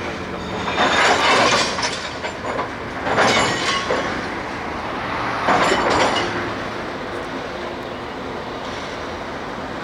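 Railway vehicle rolling along the track, with three loud surges of wheel-on-rail noise about two seconds apart.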